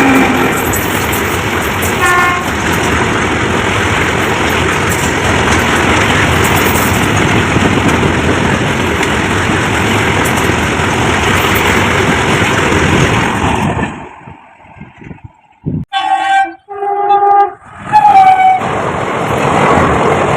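A passing train runs steadily with a loud rumble for most of the clip, then drops away. Three short train horn blasts follow in quick succession, and the running noise picks up again near the end.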